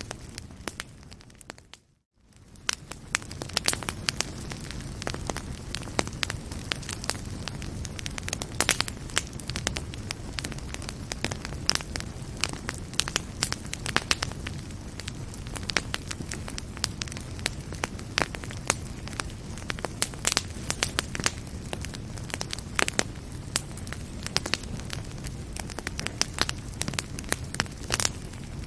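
Wood fire burning in a fireplace: a steady low rumble of flames with many sharp crackles and pops. About two seconds in the sound fades almost to silence for a moment, then the crackling returns.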